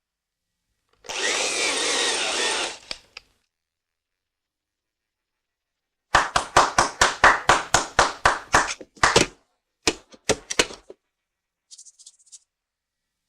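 Cartoon tool sound effects: a burst of scraping noise for about two seconds, then a quick run of about a dozen sharp strokes, about four a second, followed by a few more strokes and a brief faint hiss.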